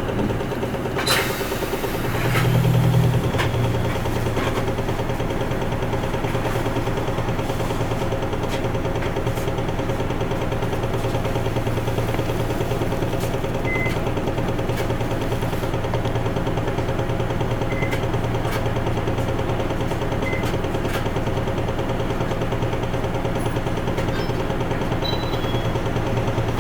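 Interior sound of an Isuzu Erga Mio city bus under way, its diesel engine running with a steady low drone. The engine swells briefly about two seconds in, then settles. A sharp click sounds about a second in.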